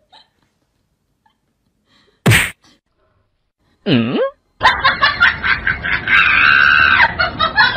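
A loud cartoon-style slap sound effect timed to a cat's paw swat, then a short swooping whine. After that comes about three seconds of dense, clattering noise.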